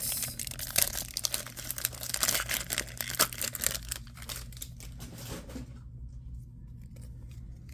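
Foil Pokémon booster pack being torn open and its wrapper crinkled: dense crackling for about five seconds that then dies down to faint rustling.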